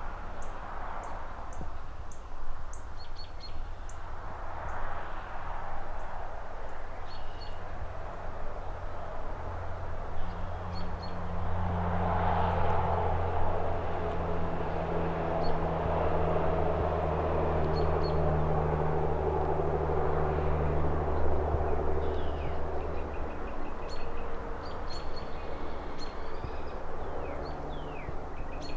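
City ambience: road traffic passing in waves, with a low engine drone that builds about a third of the way in and fades near the end, while small birds chirp now and then above it.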